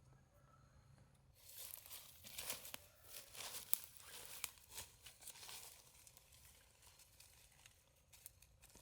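Close rustling and crinkling with many small crackles, starting about a second and a half in and dying away over the next five seconds.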